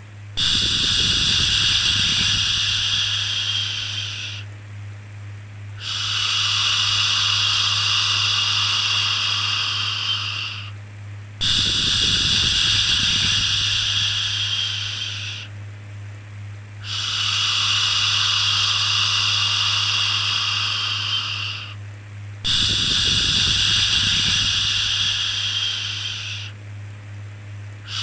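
A long, steady 'shhh' shushing sound, repeated five times, each lasting four to five seconds with a short pause between. A steady low hum runs underneath.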